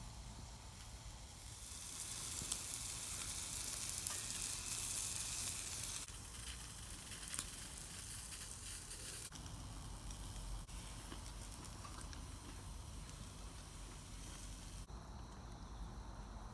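Bacon-wrapped asparagus sizzling in a skillet over a small wood fire: a steady hiss with a few sharp pops. It swells a couple of seconds in, then drops suddenly in level a few times.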